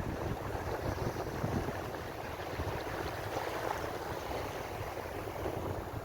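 Ocean waves washing on the shore, an even, continuous rush of surf.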